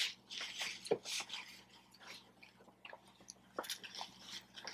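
A person chewing food close to the microphone: soft, irregular mouth clicks and chewing noises.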